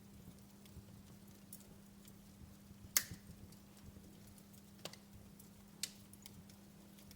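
Wood fire crackling in a fireplace: scattered sharp pops and snaps, the loudest about three seconds in, over a faint steady low hum.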